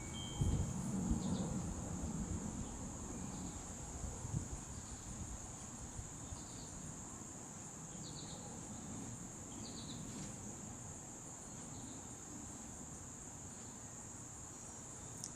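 Steady high-pitched insect chorus, a continuous even trill, with short faint chirps every second or two and some low rumble in the first couple of seconds.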